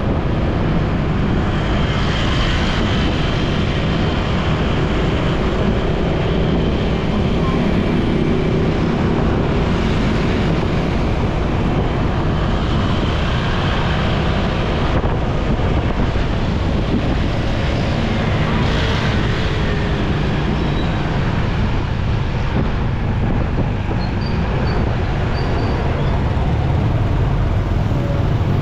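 Ride noise from a motorcycle moving through busy city traffic: a steady, loud rumble of the bike and surrounding vehicles on the road.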